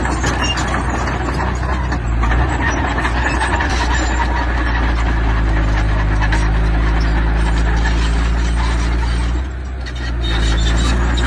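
Diesel engine of heavy earthmoving machinery running steadily under load, with a scatter of clicks and knocks over it. It eases off briefly about nine and a half seconds in, then picks up again.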